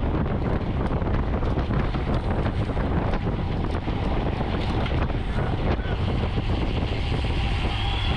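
Steady wind buffeting the microphone of a camera moving with a bicycle race, with the rushing noise of riding at speed.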